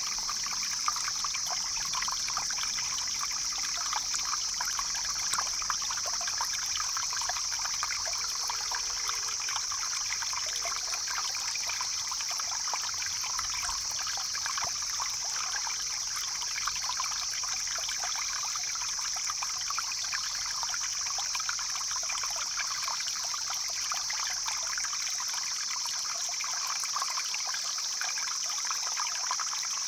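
Stream flowing and trickling steadily, with a constant high-pitched hiss above the water sound.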